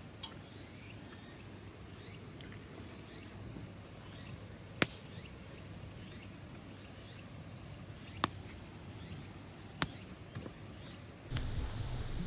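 Faint outdoor background with four sharp single pops spaced a few seconds apart, then a louder steady rustling noise starting about a second before the end.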